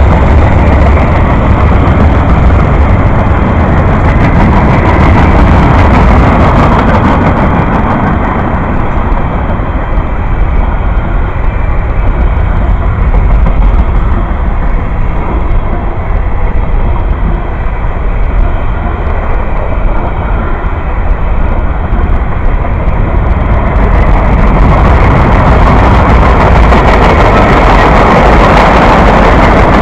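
A train passing close by, a loud, steady noise that eases slightly in the middle and swells again near the end.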